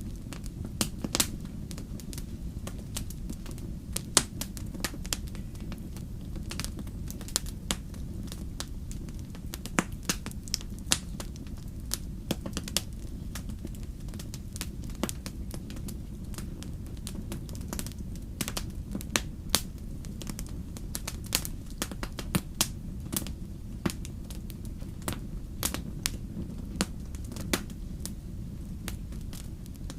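Wood fire burning in a fireplace, crackling and popping with many sharp, irregular snaps over a steady low rumble.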